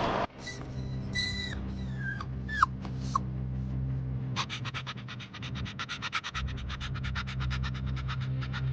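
Animal sounds over a steady low hum: a few short squeaky chirps in the first three seconds, then a rapid run of clicks, about ten a second, lasting about four seconds.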